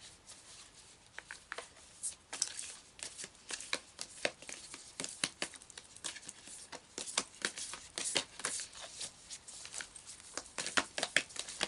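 Tarot cards being shuffled and handled by hand: a dense, irregular run of short clicks and rustles, busier from about two seconds in.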